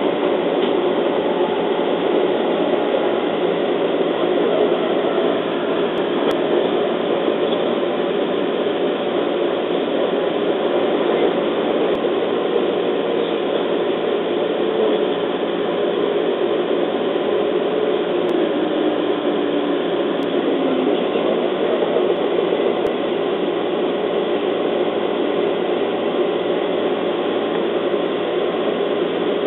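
Running sound of a JR East 211 series electric train heard from inside the car: wheels on the rails and a steady rumble of the train under way. Partway through, a motor whine falls in pitch as the train slows, and it is drawing into a station platform near the end.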